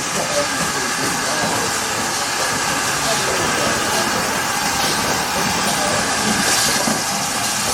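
Steam train on the move, hauled by 2-8-0 tank locomotive 5239 Goliath: a steady hiss of steam over the rumble of the running train.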